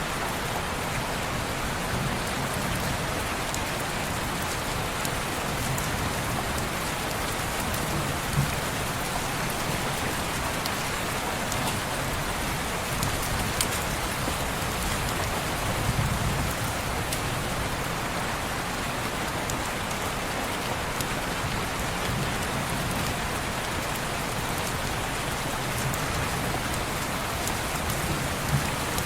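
Steady rain on a window, a continuous even hiss, with a few sharp ticks now and then and soft low rumbles, the strongest about halfway through.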